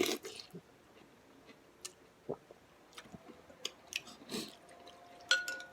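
Close-miked chewing of pho: scattered soft wet mouth clicks and smacks, with a louder burst right at the start and another near the end.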